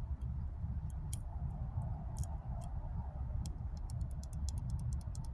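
Dental floss clicking and snapping between teeth: a run of small, sharp clicks that comes quicker in the second half, over a steady low rumble.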